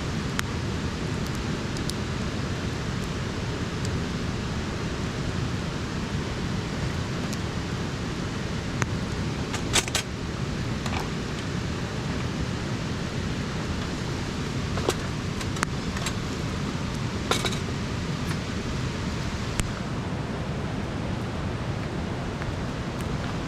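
Campfire crackling: a steady hiss with scattered sharp pops of burning firewood, the loudest a double pop about ten seconds in and another around seventeen seconds in.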